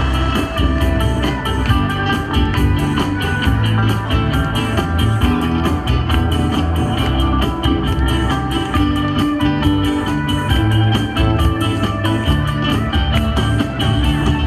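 A live band playing an instrumental passage with a steady beat and no singing.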